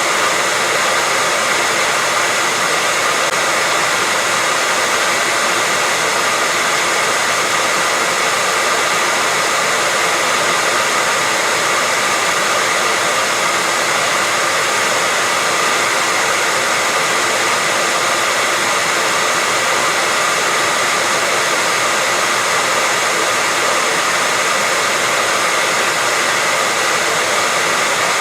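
Hair dryer blowing steadily: an even, unchanging hiss with a faint high tone in it, used as white noise to lull babies to sleep.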